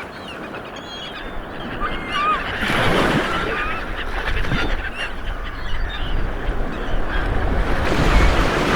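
Waves washing on a shore, swelling about three seconds in and again near the end, with a low rumble beneath and many short, wavering bird calls scattered over the top.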